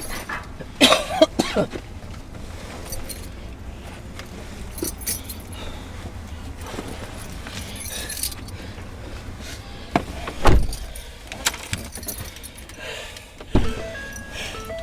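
A bunch of keys jangling and clinking about a second in, over a low steady rumble, with two heavier knocks later on.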